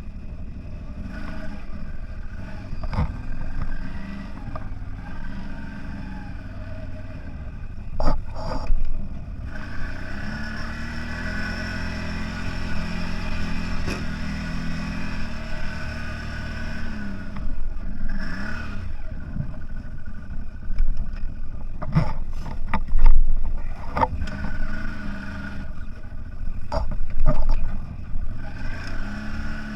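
CFMoto 1000 off-road vehicle's engine running under varying throttle, the revs climbing and holding for several seconds mid-way. Scattered knocks and clatters from the machine jolting over rough ground, the loudest about 8 seconds in and again about 23 seconds in.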